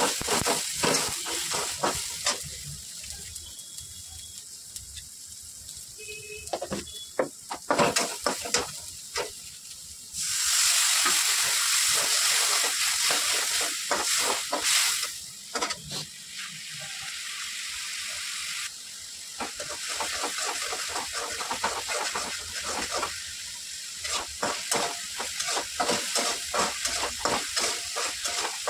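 A metal spatula clicks and scrapes against a kadhai as an onion-tomato masala is stirred and fried. About ten seconds in, a loud sizzling hiss starts suddenly, as liquid meets the hot pan, and settles to a lighter sizzle under continued stirring after a few seconds.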